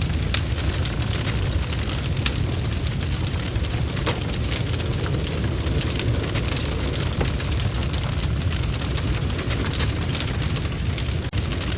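Wood fire crackling: irregular sharp pops and snaps of burning wood over a steady low rumble of flames. The sound drops out for an instant near the end.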